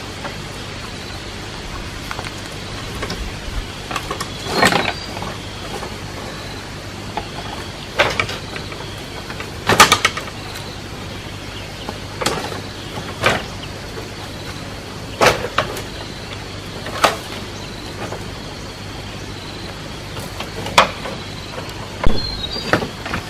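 About ten sharp knocks and clacks, spaced irregularly a second or several apart, over a steady background hiss.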